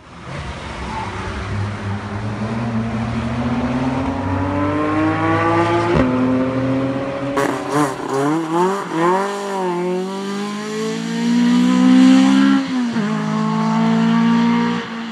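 Rally car engine under hard throttle: its pitch climbs steadily for about six seconds, then wavers up and down with quick throttle lifts and blips, climbs again and drops sharply about two seconds before the end.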